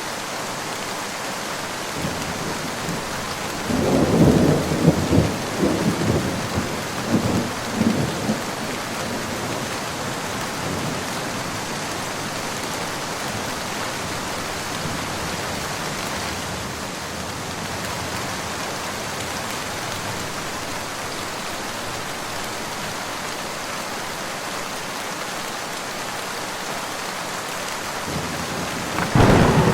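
Steady rain with a roll of thunder: a crackling rumble about four seconds in that dies away after a few seconds, and another thunderclap breaking right at the end.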